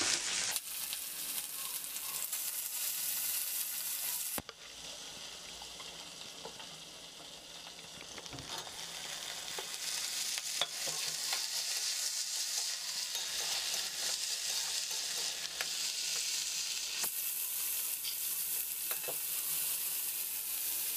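Cauliflower and carrot pieces sizzling in hot oil in a wok while a metal spatula stirs them, with small clicks and scrapes of the spatula against the pan. The sizzle drops abruptly about four seconds in, then builds back up and is loudest near the end.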